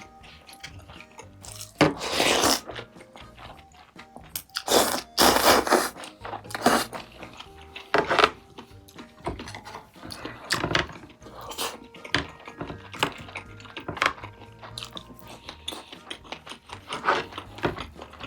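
Close-miked eating sounds: irregular bites and chewing with several louder crunchy bursts, over quiet background music.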